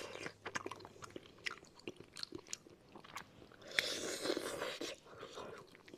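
Close-miked biting and chewing of braised fish: irregular small clicks and smacks from the mouth, denser and louder about four seconds in.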